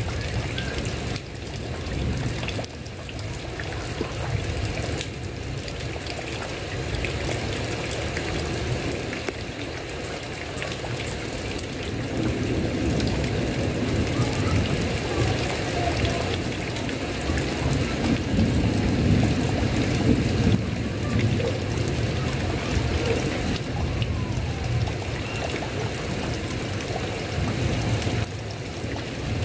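Heavy rain falling steadily on a tile roof, growing somewhat louder and fuller about halfway through.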